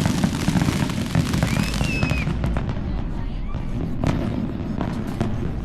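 Fireworks going off in quick succession: a dense run of sharp bangs and crackles over a continuous low rumble, with a brief whistle gliding in pitch about two seconds in.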